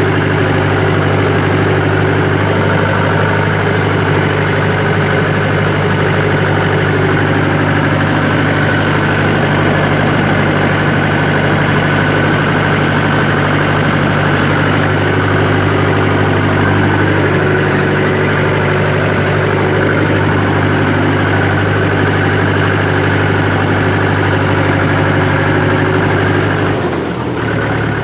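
Tractor diesel engine running steadily at constant revs. Its note drops and changes near the end.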